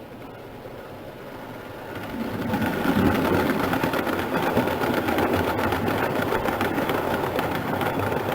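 Electric model train running on the layout's track, growing louder as it comes closer over the first two seconds or so, then running steadily with a small motor whirring and rapid clicking of wheels over the rail joints.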